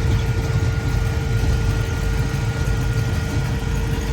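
Engine idling: a steady, rapidly pulsing low rumble with a faint steady hum above it.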